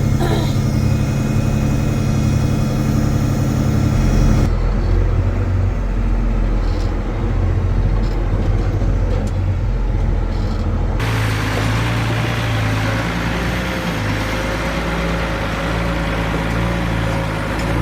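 Vehicle engine running steadily; its sound changes abruptly twice, about four and a half and eleven seconds in.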